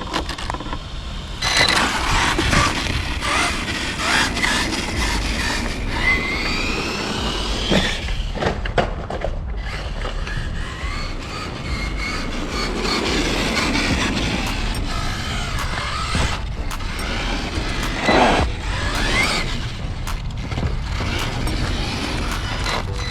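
Losi LMT RC monster truck being driven: its electric motor whines up and down in pitch as the throttle is worked, over a low rumble of tyres on concrete. Several sharp knocks and thumps from the truck landing and hitting the ground, the loudest about eighteen seconds in.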